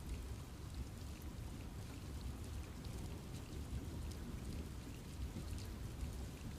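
Steady rain falling in a forest, with scattered individual drops ticking against a low, even rumble.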